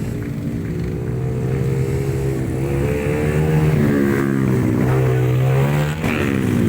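Motocross motorcycle engines running loud, the pitch holding, climbing and falling as the bikes rev and shift, with a sudden drop about six seconds in.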